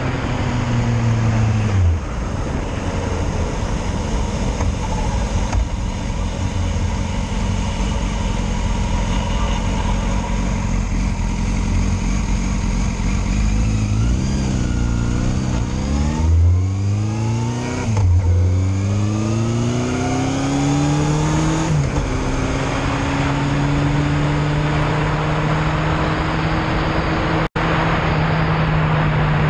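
Yamaha Fazer motorcycle engine heard from the bike while riding, over steady wind noise. The engine note drops about two seconds in and holds steady, then from about fourteen seconds in it accelerates through the gears in three rising runs, each broken by a gear change, before settling to a steady cruise. A brief dropout comes near the end.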